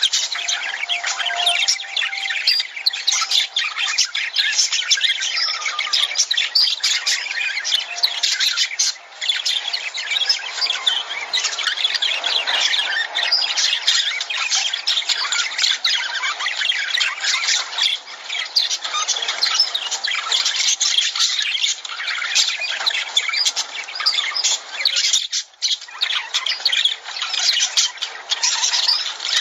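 A flock of lovebirds chattering: a dense, constant stream of shrill squawks and chirps, with a brief lull about 25 seconds in.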